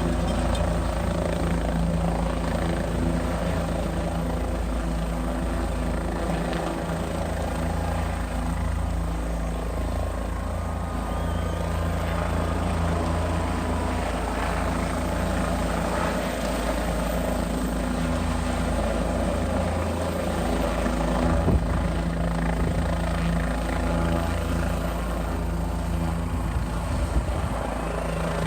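Helicopter running at a steady level, its low engine and rotor tones holding constant.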